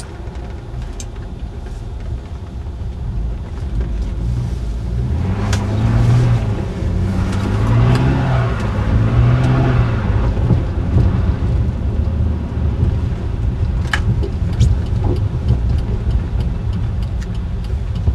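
1982 Mercedes-Benz 280SE's straight-six engine running, heard from inside the cabin as the car drives, the revs rising and falling several times in the middle. A few sharp clicks come through about five seconds in and again near fourteen seconds.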